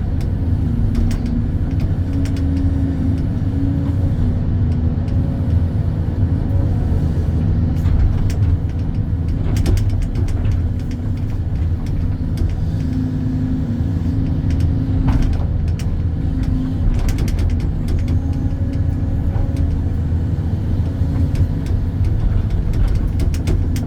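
Hydraulic excavator's diesel engine running steadily under load as it digs, with a higher hum from the hydraulics coming and going and a few sharp metallic knocks.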